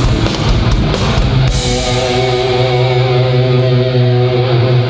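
Hardcore punk band playing live at full volume: drums, cymbals and distorted guitars for about a second and a half, then a held distorted guitar and bass chord ringing out steadily as the song ends.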